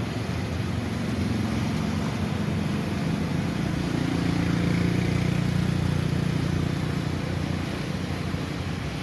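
A motor engine drawing near and passing: a low hum that grows louder to a peak about halfway through and then fades, over a steady hiss.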